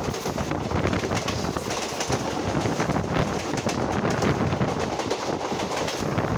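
Express passenger train running at speed, heard from outside the coach: a steady rush of wheel-on-rail noise mixed with wind on the microphone.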